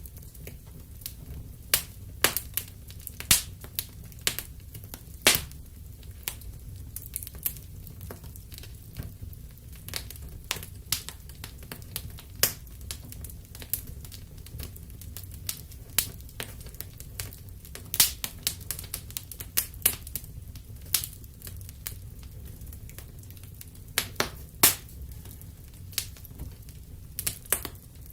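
Wood fire burning in a fireplace: a low steady rumble of flames with irregular sharp crackles and pops, thicker near the start and end.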